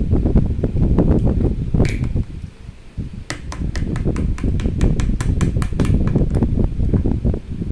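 Close, loud handling noise as hands work a slime container and slime right by the microphone. About two seconds in there is a short rising squeak, then a quick run of about fourteen sharp clicks, roughly four a second.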